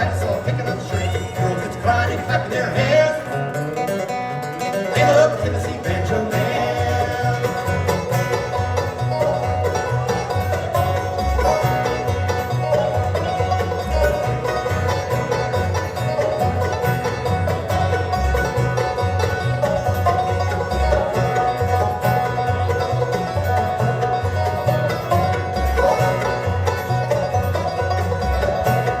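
Live bluegrass band playing, with banjo picking out front over guitar and a steady pulse of low bass notes.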